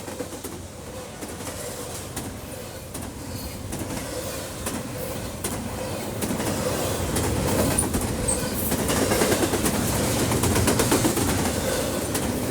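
Train rolling by on the rails, with wheels clicking over rail joints. It grows louder over the first two-thirds and then holds.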